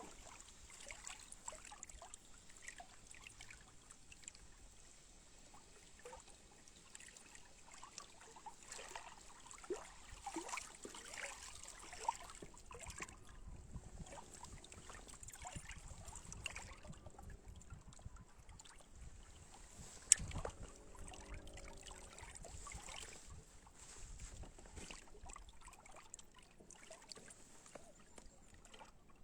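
Faint water lapping and trickling, with many small clicks and splashes, and one sharp knock about two-thirds of the way through.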